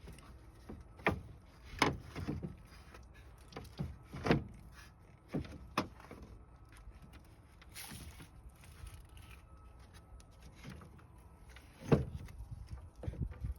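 Scattered clicks and knocks of hand tools and parts being handled while a car's radiator is taken out, about a dozen separate hits with the loudest near the end.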